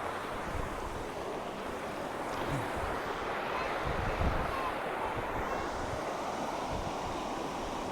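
Steady rushing of a mountain river and waterfall, with wind buffeting the microphone in low rumbles.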